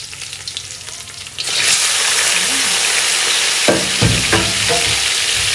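Garlic sizzling in oil in a wok, then boiled porcupinefish meat is tipped in about a second and a half in and the pan bursts into a much louder, steady sizzle. A few short clanks against the wok around the middle.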